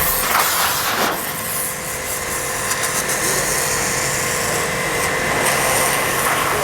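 Portable high-pressure car washer running, its motor whining steadily while the jet hisses against a car tyre, blasting off dust.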